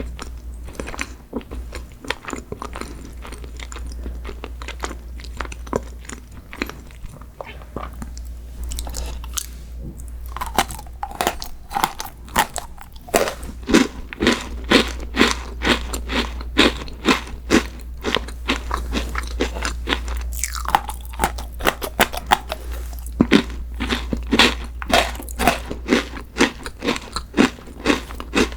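Close-miked eating: a person biting and chewing crunchy sweets. The chewing is soft at first, then turns to crisp crunches about twice a second.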